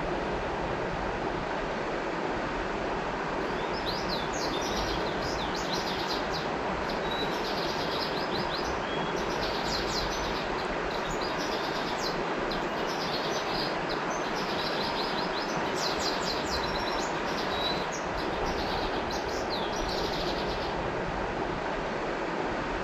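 Steady rush of flowing river water, with a small bird singing long runs of rapid, high chirps from a few seconds in until near the end.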